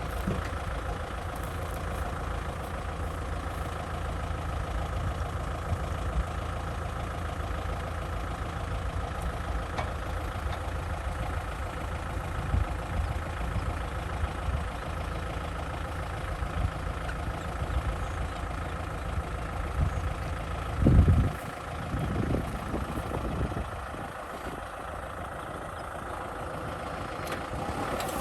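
Kubota M6040 SU tractor's diesel engine running steadily. A brief, louder low thump comes about three quarters of the way through.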